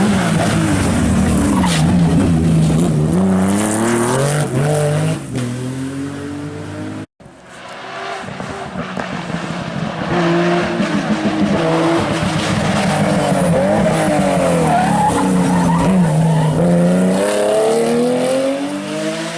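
Historic rally cars at full effort on a special stage, engines revving up and falling back through the gear changes. About seven seconds in the sound cuts off abruptly and a second car is heard approaching and passing.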